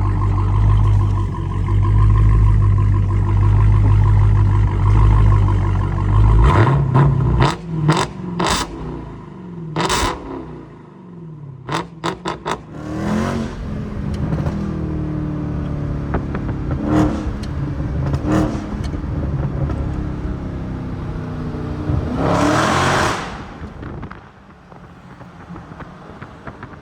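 Dodge Challenger Hellcat's supercharged 6.2-litre HEMI V8, its mid-mufflers cut out, running loudly for about six seconds, then revved in a string of quick throttle blips and, a little after twenty seconds, one longer rev up and back down.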